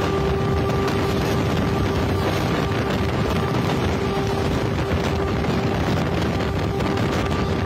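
Steady running noise of trains at speed, heard from an open window or door of a moving train: wheels on rails and rushing wind, with a constant humming tone underneath.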